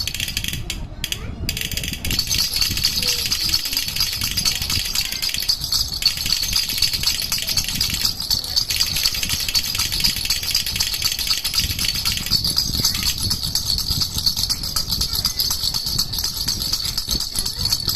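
Baby rattle (jhunjhuna) shaken continuously in a fast, steady rattle, with a couple of brief breaks in the first two seconds.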